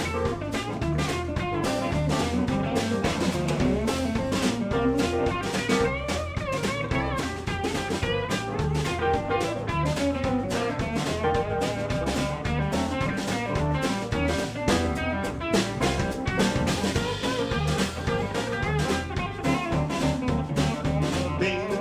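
Live blues band playing an instrumental passage: guitar over a steady drum kit and bass groove.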